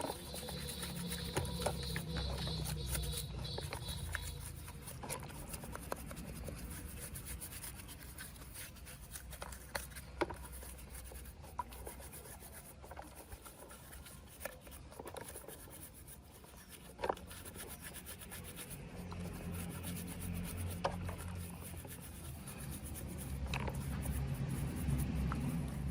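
Hand work on small model-car parts: rubbing and scraping, as in sanding or filing, with light clicks and taps scattered through it.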